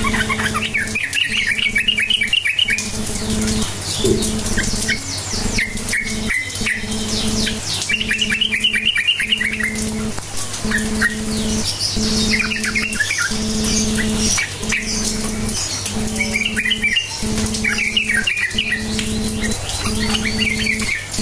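Yellow-vented bulbul (cucak trucuk) singing: short, fast, bubbly chattering phrases repeated every few seconds, with high trills between them. Under it runs a steady low hum that drops out briefly every second or two.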